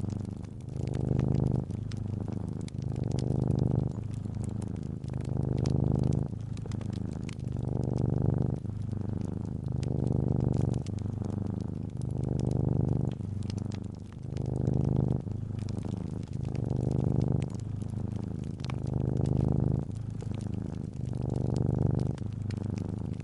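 Cat purring steadily, the low rumble swelling and easing with each breath about every two seconds, over the light crackle and pops of a wood fire.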